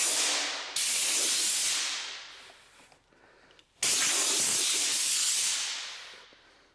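Spray hissing in three bursts: a short one right at the start, then two long sprays starting about a second in and near four seconds in, each cutting in suddenly and tailing off over a second or so.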